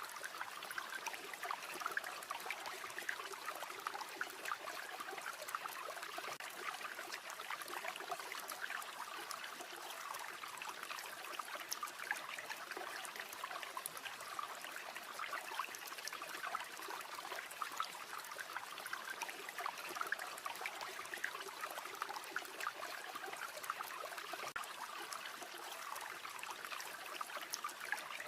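River water flowing steadily over stones, with many small sharp crackles from a campfire scattered through it.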